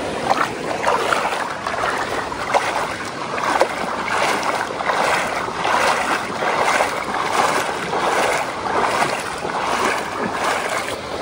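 Creek water splashing as someone wades across, in uneven surges about once or twice a second over a steady rush of water.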